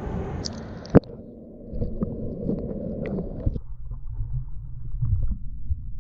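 Low rumbling water and handling noise as a small bass is released from the kayak, with one sharp knock about a second in.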